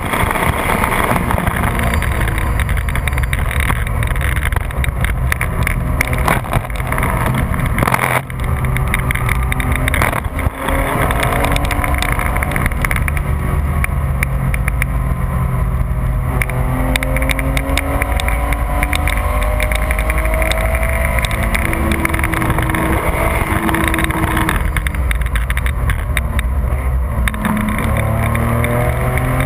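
Porsche 996 GT3's 3.6-litre flat-six engine under hard driving, with heavy wind and road noise, heard from inside the car. Its sound breaks briefly twice in the first third at gear changes. Its pitch falls while braking for a corner about three-quarters of the way through, then rises again as the car accelerates out near the end.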